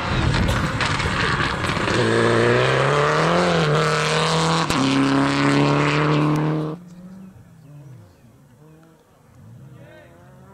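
Rally car engine running hard at high revs as the car passes, its note rising briefly and then held. The sound cuts off suddenly about seven seconds in, leaving only a faint background.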